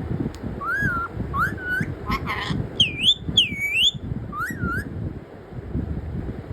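A pet parrot whistling: about six short notes, each rising and falling in pitch, the loudest two swooping down and back up near the middle; the whistles stop about five seconds in, leaving a low background noise.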